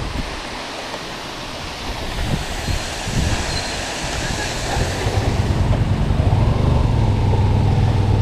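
Wind and rushing-water noise, then from about five seconds in the low, steady drone of a Yamaha FZ V2's single-cylinder engine comes up and grows louder as the motorcycle gets under way.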